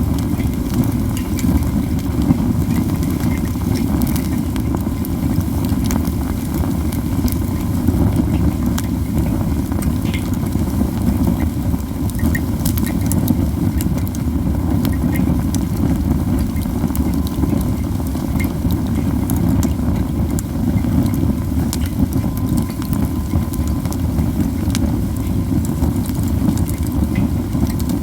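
A campfire of heaped pine cones burning hard: a steady low rumble of flames with frequent sharp crackles and pops scattered throughout.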